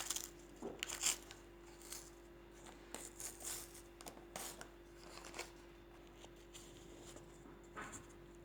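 Faint crinkling, tearing and rustling of a wound dressing being handled, with scattered small clicks over a faint steady hum.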